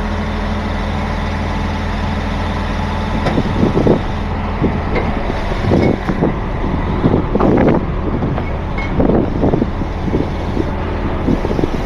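Heavy truck engine idling steadily, with irregular short knocks and rustles from about three seconds in.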